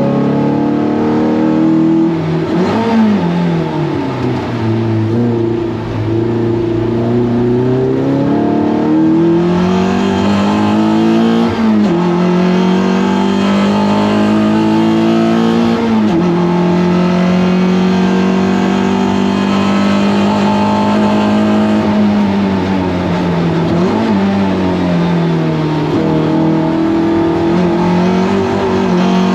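Toyota MR2 race car engine heard onboard at racing speed. Its pitch climbs through each gear and drops sharply at the gear changes several times, with steady stretches between.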